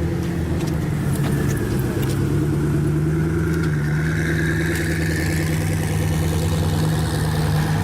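Car engine running at a steady speed, with a few faint clicks in the first couple of seconds.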